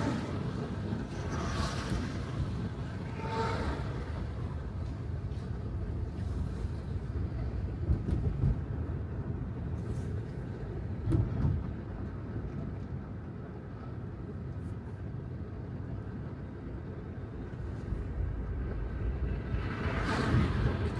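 Steady low road and tyre noise from an electric Tesla Model 3 driving on wet city streets, with a few louder whooshes near the start and the end and a couple of short knocks around 8 and 11 seconds in.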